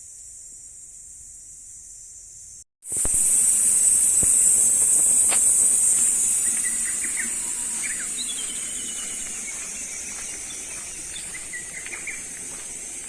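A high, steady insect chorus. It drops out briefly near the start, comes back loud about three seconds in and slowly fades. Short bird chirps and a falling bird whistle sound over it.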